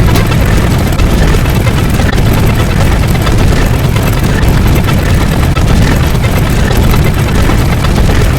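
A loud, steady rumbling roar, heavy in the low end, like a large engine or aircraft.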